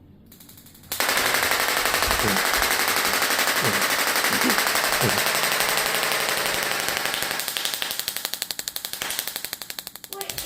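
Bicycle freewheel hub ratcheting: a loud, very rapid buzz of clicks that starts about a second in, from a wheel coasting or spinning freely, then slows and grows uneven near the end.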